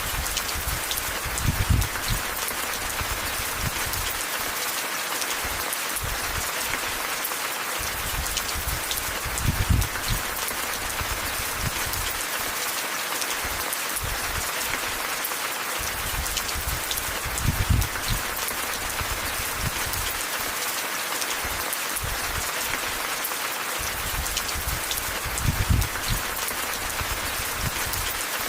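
Steady rain falling, an even hiss, with a brief low rumble swelling up four times at even spacing, about every eight seconds.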